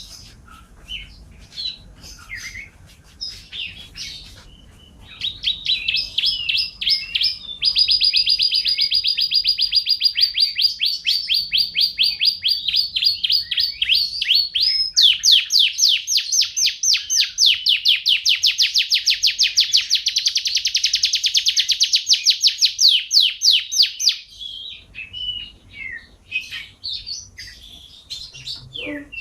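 Domestic canary singing: short varied chirps at first, then long rolling trills of fast, evenly repeated high notes from about five seconds in until about twenty-four seconds in, then a return to short varied notes.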